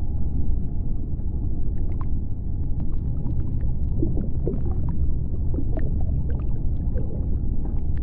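Underwater seabed ambience: a steady low rumble with scattered sharp clicks, and a few short wavering calls about halfway through.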